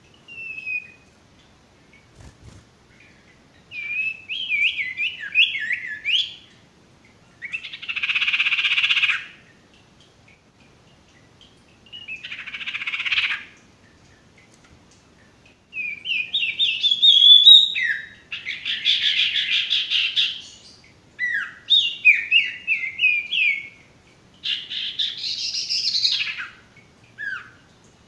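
Sirtu bird calling in bursts: runs of quick, downward-sliding chirps alternate with harsh, raspy chattering calls, each phrase set apart by a short pause. This is tutor or lure audio of a calling sirtu.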